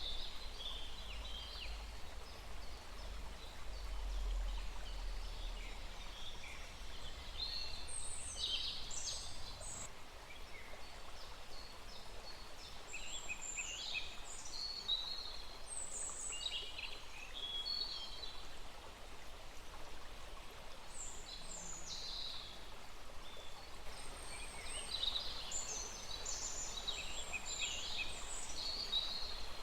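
A small forest stream running steadily, with several birds singing and calling over it in short, high chirps and phrases throughout. A low rumble sits under it for the first few seconds.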